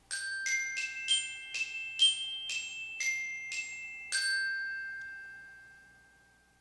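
A short chime jingle of bright, bell-like mallet tones: nine quick notes, then a tenth note left ringing and fading out over a couple of seconds.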